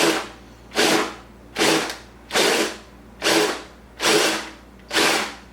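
Power drill with a 2-inch hole saw cutting into a dried bottle gourd's shell in short, evenly repeated bursts, about seven in five seconds.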